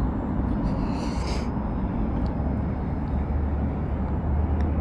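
Steady low rumble of wind on the microphone and road noise while riding a KuKirin G2 electric scooter, with a short high-pitched sound about a second in.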